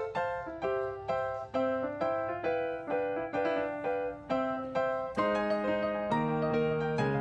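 Background piano music: a gentle melody of single notes, about two or three a second, joined by held lower chords about five seconds in.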